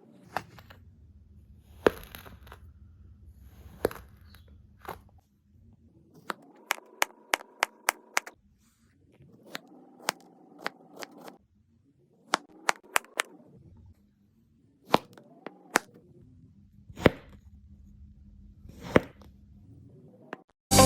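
A series of sharp clicks and cracks, some single and some in quick runs of four or five, over a faint steady hum.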